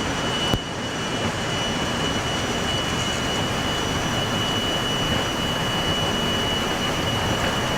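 Boeing 737-300's CFM56-3 jet engines running at takeoff thrust during the takeoff roll, heard from the flight deck: a steady rush of engine and air noise with a constant high whine, and a single click about half a second in.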